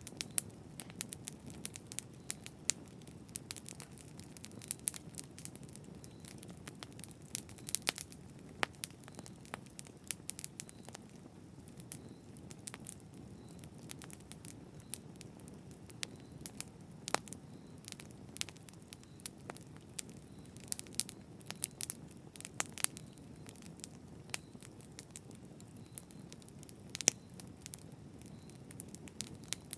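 Wood fire crackling: irregular sharp pops and snaps, a few louder than the rest, over a soft steady low rush.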